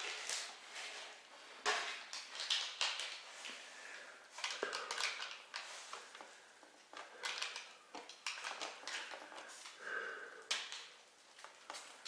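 A small kitten eating from a dish: irregular crunchy chewing and small clicks against the bowl.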